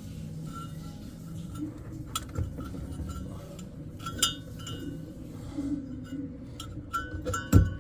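Scattered light metallic clinks and taps of hand tools and parts being handled during work on a washing machine, with one sharper knock near the end.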